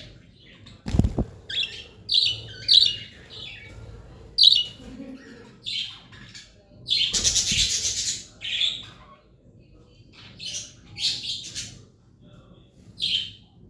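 Budgerigars calling: a string of short chirps at irregular intervals, with a longer, harsher burst about seven seconds in. A low thump sounds about a second in.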